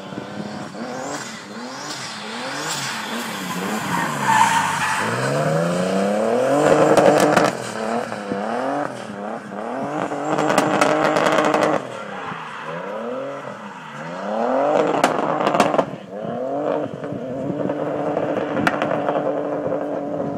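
Drift car's engine revving hard, its pitch swinging up and down over and over as the throttle is worked, held high for a few seconds at a time while the car slides around the course.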